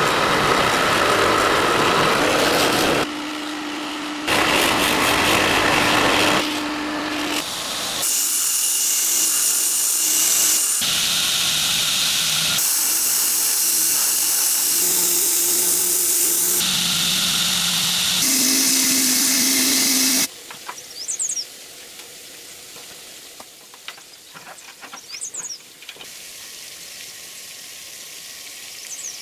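Power grinder grinding the blade of a forged knife: a loud, hissing grind over a steady motor hum, breaking off and restarting abruptly several times. About twenty seconds in it gives way to quieter scattered clicks and taps.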